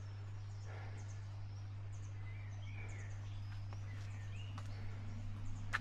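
Faint birdsong in woodland: a few short, scattered chirps over a steady low hum.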